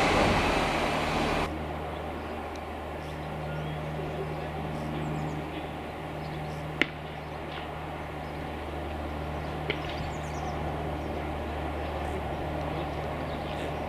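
Tail of a passing train, fading, then cut off abruptly about a second and a half in. After that comes a steady low drone, with two sharp clicks and faint high chirps.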